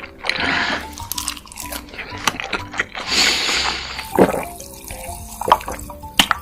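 Soft background music with close-miked wet eating sounds: two hissing slurps, about half a second in and about three seconds in, and scattered small clicks of chewing.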